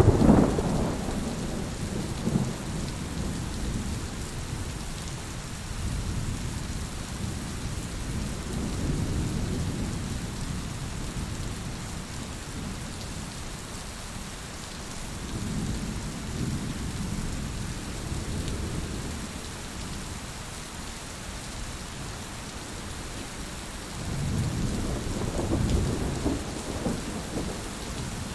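Steady rain with rolling thunder: a loud rumble right at the start, then softer rolls about a third of the way in and in the middle, and a stronger one swelling near the end.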